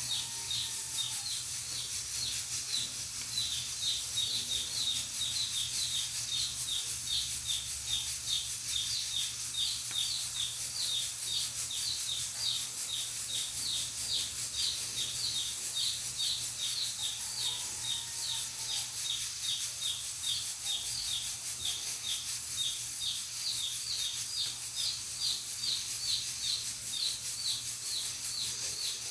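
Pressure cooker on a wood-fired stove hissing steam steadily through its valve. A rapid, regular high chirping, about three a second, runs through the hiss.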